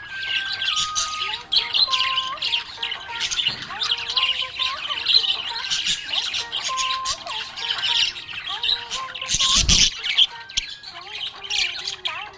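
A budgerigar chirping and chattering continuously in rapid, high warbles and squawks, over a soft background melody of held, stepped notes. A short loud burst of noise cuts in about nine and a half seconds in.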